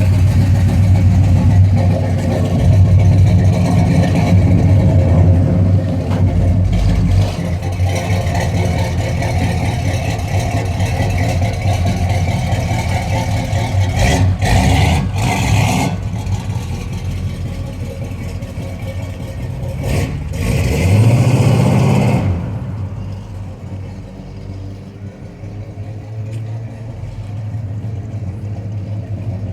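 1972 Chevrolet Chevelle's 350 V8 running through a Thrush muffler with the mean, lopey idle of an aggressive cam, swelling with a rev about twenty seconds in. From about twenty-two seconds in it becomes quieter and duller.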